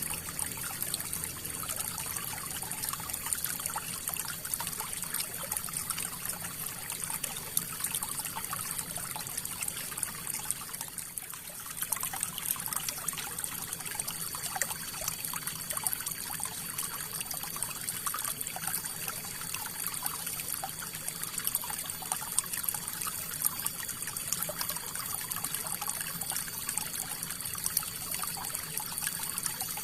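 River water flowing and trickling, a steady rush dotted with small splashes, briefly softer about eleven seconds in.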